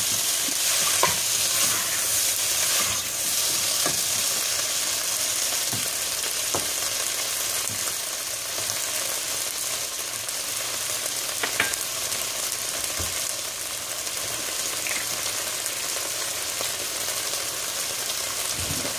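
Chopped onions, tomatoes and bell peppers sizzling in oil in a pot, a steady hiss. A few light clicks come from the spatula stirring against the pot.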